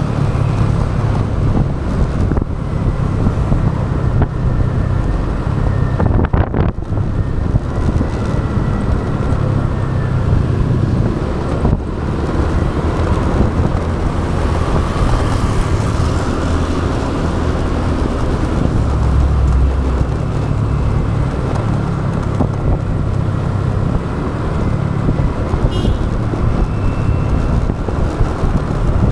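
Motorbike riding through city traffic: a steady rumble of engine, tyres and passing traffic, with wind buffeting the action camera's microphone.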